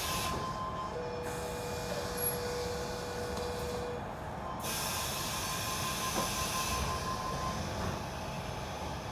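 Inside the carriage of a Sydney Trains electric passenger train moving off after the doors close: a steady running rumble with faint steady whining tones from the train's drive.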